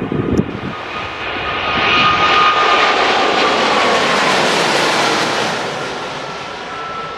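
Boeing 777-300ER's GE90-115B turbofans at takeoff power as the jet passes by on departure: the engine noise swells, peaks and eases, with a whine that falls in pitch as it goes past. Wind buffets the microphone at the start.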